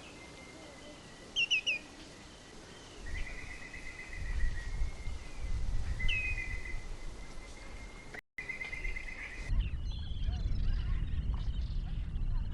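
Wild birds calling: a quick run of three falling chirps, then short buzzy trills, over a steady high tone. A low rumbling noise comes in a few seconds in and grows stronger near the end.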